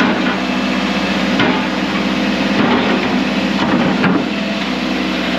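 A construction machine's engine running steadily, with several sharp metallic knocks and clanks as the machine shifts on a trailer during loading.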